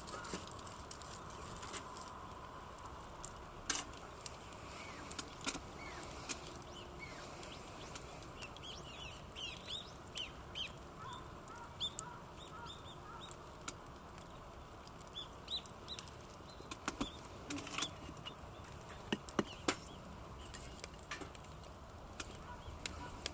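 Birds calling, a run of short chirps through the middle, with scattered sharp clicks over a steady low background.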